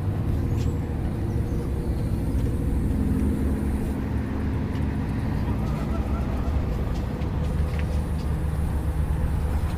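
Steady road traffic noise: a continuous low rumble of passing vehicles with a faint engine hum.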